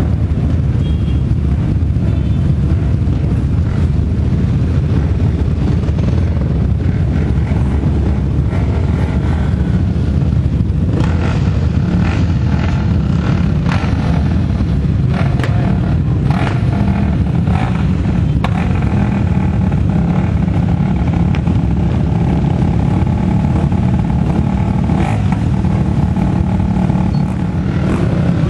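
Off-road motorcycle and quad engines running and revving as the machines ride past. Over a steady low rumble, engine notes rise and fall from about a third of the way in.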